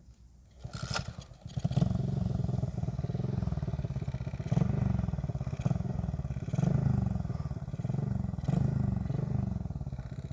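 A 110cc pit bike's small four-stroke single-cylinder engine comes in loud about two seconds in and runs on, revving up and easing off about once a second.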